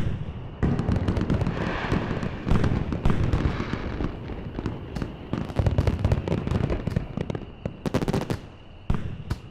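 Fireworks going off in quick succession: deep booms mixed with sharp crackling bursts, starting suddenly, densest in the first half and thinning to scattered cracks near the end.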